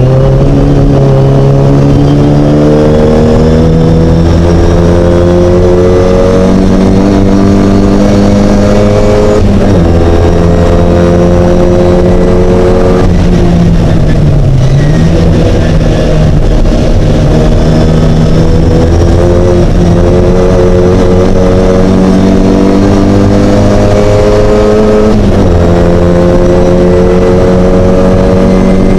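Mini's engine under hard acceleration on track, its pitch climbing slowly through the revs and dropping sharply at gear changes about nine, thirteen and twenty-five seconds in, with a brief dip and recovery around fifteen seconds in.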